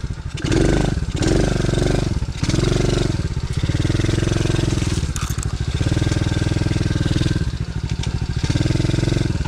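DB14 110cc single-cylinder four-stroke pit bike engine running under the rider, revving up and dropping off several times in the first few seconds as the throttle is opened and closed, then pulling more steadily with small rises and falls in pitch.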